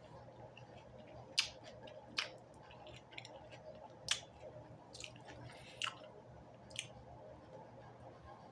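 A person chewing orange segments, mouth sounds with about six sharp smacks and squishes spread through, the loudest about a second and a half in.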